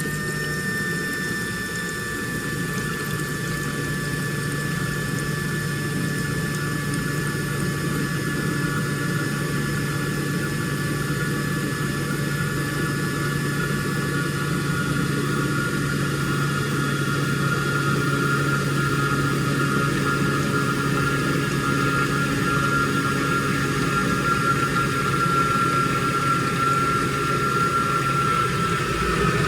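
Washing machine taking in water at the start of its cycle: water running into the drum over a steady low hum, with a high whine that drifts slowly lower.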